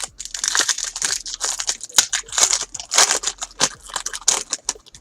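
Trading card pack wrapper being crinkled and torn open by hand: a dense, continuous crackling.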